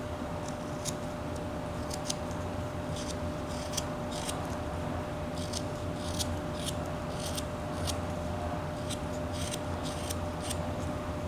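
Whittling knife taking short slicing cuts in sugar pine, a run of irregular crisp snicks about one or two a second.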